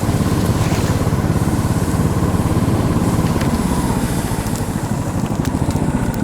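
Small engine of an all-terrain vehicle (karakat) running steadily, a fast even pulsing that eases slightly near the end.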